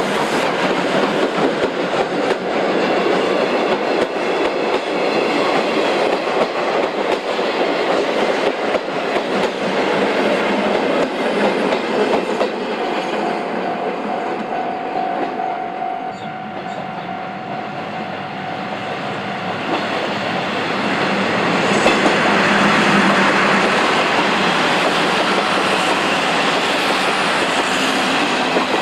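Steam-hauled train passing close by, the tender and coaches of the C58 locomotive clattering over the rail joints. Partway through, a level-crossing warning signal gives a steady tone. After a short lull a second train, a red JR electric train, passes with its wheels clacking.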